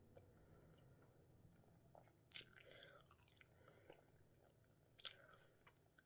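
Faint, close mouth sounds of someone chewing a peeled hard-boiled egg, with two short clusters of wet clicks, about two seconds in and again about five seconds in.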